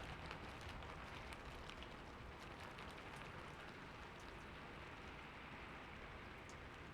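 Steady rainfall, faint, with scattered individual drops ticking over an even hiss.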